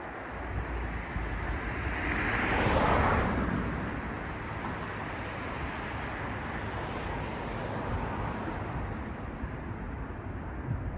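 City street traffic noise, with a vehicle passing close and swelling up and fading away about three seconds in, over a steady background hum.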